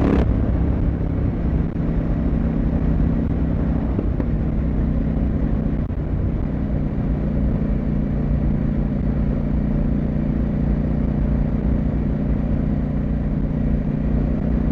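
CFMoto 800MT's parallel-twin engine and exhaust running at a steady road speed, with a few brief dips in the engine note about 2, 4 and 6 seconds in.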